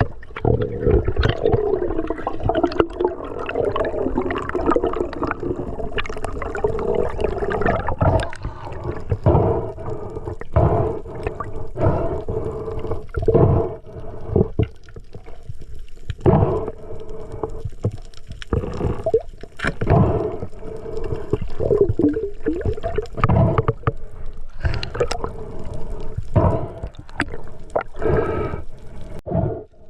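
Water gurgling and sloshing close to the camera, with irregular knocks and a steady hum underneath.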